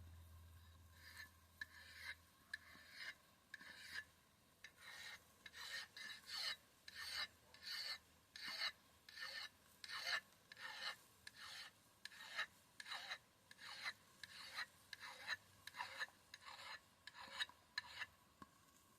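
An ax blade being sharpened by hand: a long run of short rasping strokes, about two a second, growing stronger a few seconds in.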